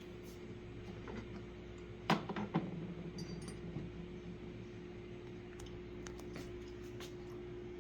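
A few sharp clicks and a clink about two seconds in, then faint ticks, from a coffee machine and cup being handled, over a steady hum.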